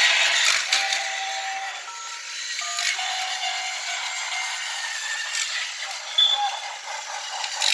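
Battery-powered Tomy Plarail C62 toy steam locomotive running on plastic track with a steady rattle, its sound unit giving out electronic beep tones, one short cluster about two seconds in and a brief high tone near the end.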